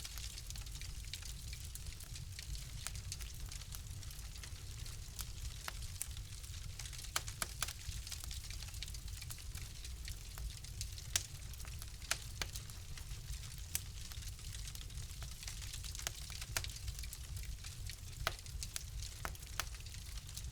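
Fire crackling in a fireplace: a steady low rumble and soft hiss, with irregular sharp pops and snaps scattered throughout.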